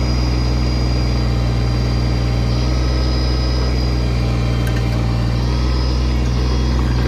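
Kubota tractor's diesel engine running steadily under load while the backhoe's hydraulic controls are worked, with a thin high whine over the engine.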